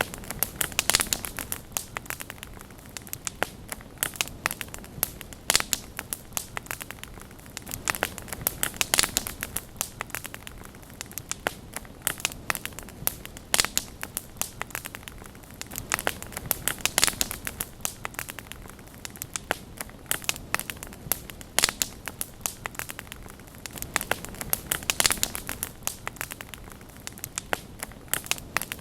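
Wood fire burning with a steady low hiss and irregular sharp crackles and pops, some coming in quick clusters.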